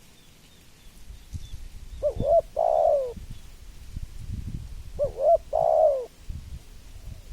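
Spotted dove (tekukur) cooing twice, about three seconds apart. Each call is a quick two-note phrase followed by a longer coo that falls in pitch. A low rumble runs faintly underneath.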